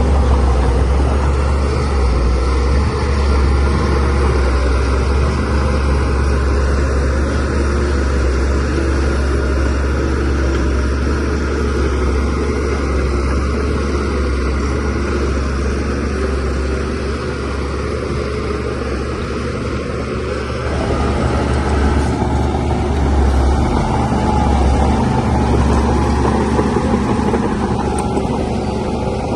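DH17C3PRO bulldozer's diesel engine running steadily with a deep hum, working harder and getting a little louder for a few seconds about two-thirds of the way through.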